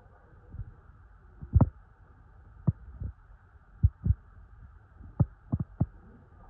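A series of dull low thumps at irregular intervals, about eight in all, several close together near the end, over a faint steady hum.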